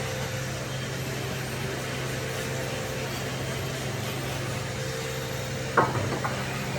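A steady low engine hum, with a sharp knock near the end followed by a couple of lighter ones.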